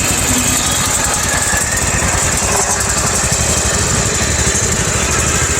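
Small garden tractor engine running steadily at idle, a fast, even chain of firing pulses.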